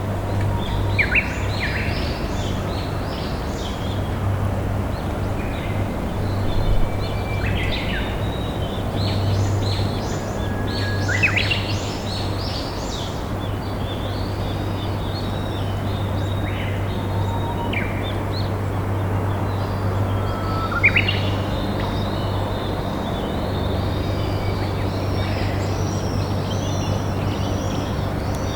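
Steady rushing of a slow-flowing river, with several wild songbirds chirping and singing over it; a few sharper, louder calls stand out about a second in and again near the middle.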